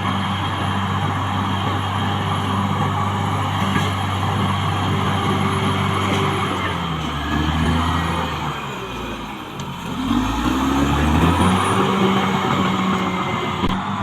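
Caterpillar D6R XL bulldozer's diesel engine running steadily, then dropping in pitch about seven seconds in and dipping before revving back up about ten seconds in.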